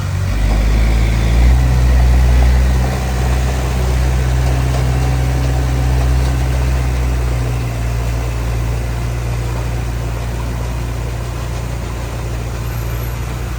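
Heavy construction machine's diesel engine running steadily. It comes up in load for the first couple of seconds, then settles to a steady lower running.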